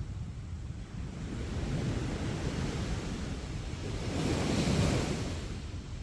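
Sea waves washing onto a beach: a steady rumbling surf, with one wave surging louder and hissing about four to five seconds in before falling back.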